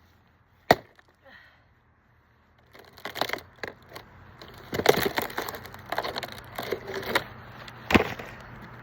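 Splitting firewood with an axe: one sharp chop about a second in and another near the end, with a run of wooden knocks and clatter in between.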